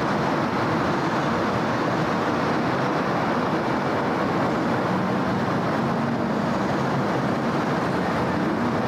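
Steady city road traffic: a continuous wash of vehicle and tyre noise, with a faint low hum joining about halfway through.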